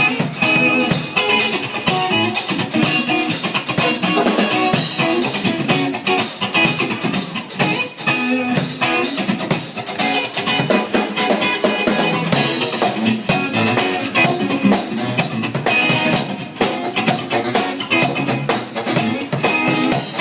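Live funk band playing an instrumental stretch with no vocals: guitar over a drum kit keeping a steady beat.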